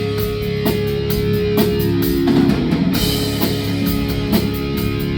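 Live rock band playing an instrumental passage between sung verses: electric guitars holding notes over a drum kit keeping a steady beat.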